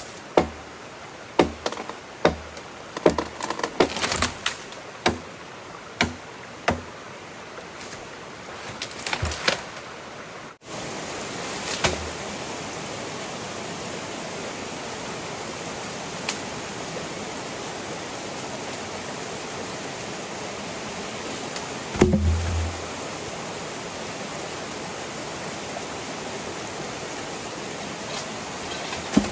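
Sharp wooden-sounding knocks, roughly one a second, for about ten seconds. Then the sound changes suddenly to a steady rush of flowing water, broken once by a dull thump.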